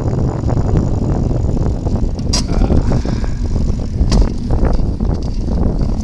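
Wind buffeting the microphone of a camera riding along on a moving bicycle, a steady low rumble, with two short sharp high sounds about two and four seconds in.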